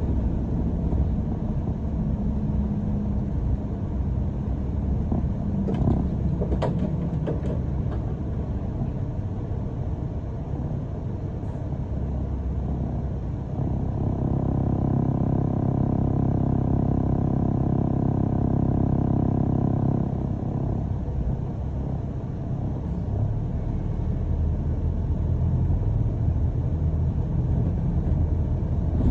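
A London bus in motion, heard from inside: a continuous low rumble of the bus running, with a few sharp clicks about six to seven seconds in. Through the middle, for about seven seconds, a steady droning hum of even pitch rises above the rumble and then drops away.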